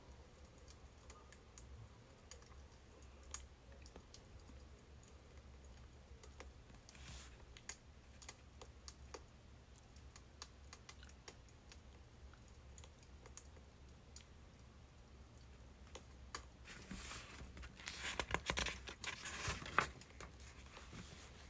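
Faint crackling of burning birch firewood: scattered small pops and snaps, with a denser, louder burst of crackling near the end.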